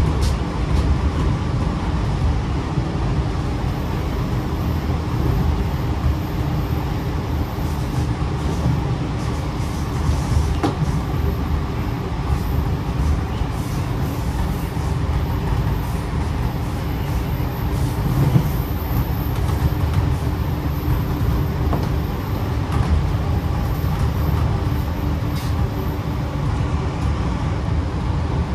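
Sydney Trains K set double-deck electric train running along the line, heard from aboard: a steady low rumble of wheels on the rails with a few short clicks.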